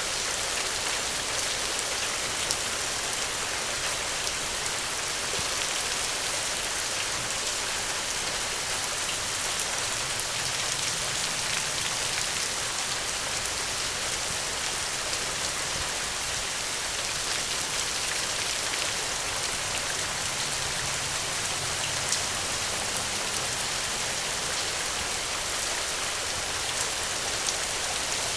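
Steady gentle rain falling, an even hiss with occasional faint drop ticks.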